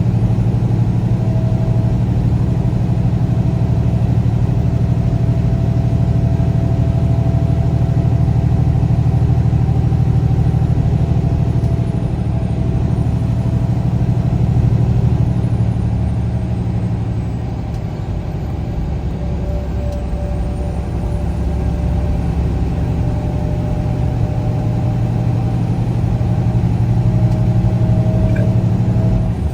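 Motor vehicle driving at road speed: a steady low engine and road drone that eases off a little about two-thirds of the way through, then builds again.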